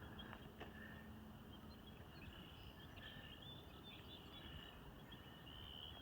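Faint birds chirping, short high calls repeating over a low, even hiss of background noise.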